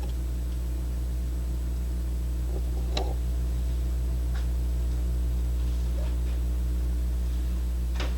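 A steady, low machine hum that starts suddenly, with a few light clicks over it.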